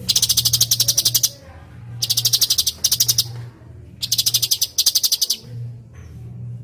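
Cucak cungkok songbird giving three rapid, high-pitched trilled phrases, each just over a second long and about two seconds apart: the fast-repeated 'tembakan' notes prized in song-tutor recordings. A steady low hum runs underneath.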